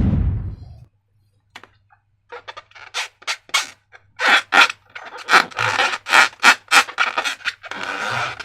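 Slime being handled: sticky, crackly rubbing and squishing in irregular bursts that come thicker and louder after a few seconds. A loud noisy burst is fading out at the very start.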